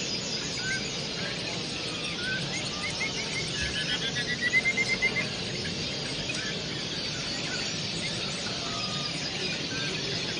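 Many caged songbirds chirping and singing at once, a dense overlapping chorus. A quick run of loud repeated chirps stands out about halfway through.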